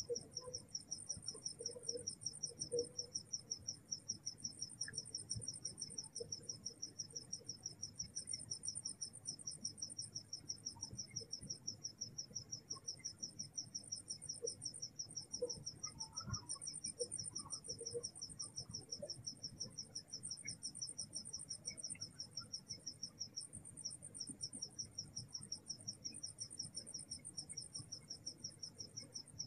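Night insects trilling in a steady chorus: two rapid, even pulsing songs at different high pitches. The lower one runs on almost without a break, and the higher one stops and starts every few seconds.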